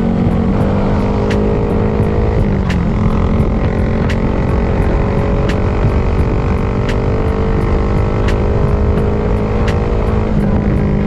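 Honda Grom's 125 cc single-cylinder engine running under way, heard from the rider's chest, with heavy wind rumble on the microphone. The engine note dips and changes pitch about two and a half seconds in and again near the end.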